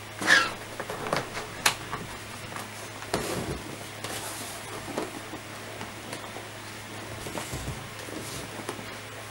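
Handling noises from unboxing a laptop: a loud scrape about a third of a second in, then scattered clicks, taps and rustles, over a steady low hum.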